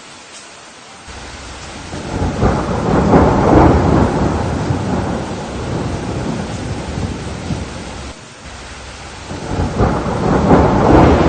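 Thunderstorm: steady rain with two rolls of thunder. The first rumble builds about a second in and rolls on for several seconds; the second swells near the end.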